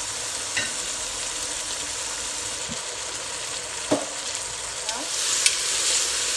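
Salmon pieces in seasonings, soy sauce and ketchup sizzling steadily in a hot enamelled pot, a little louder from about five seconds in. There are a couple of light knocks around four and five seconds as the pot is stirred.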